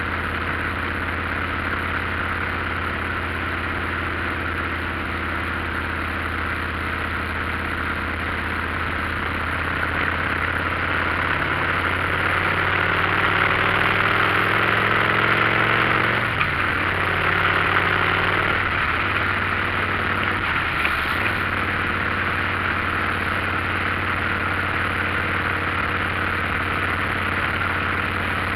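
Motorcycle engine running under a steady rushing noise while riding. About halfway through the engine note climbs and gets louder, then breaks briefly twice a few seconds apart before settling into a steady run.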